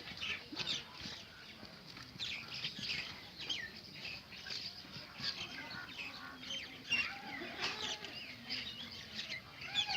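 Many small birds chirping at once, a dense run of short, quick chirps overlapping throughout.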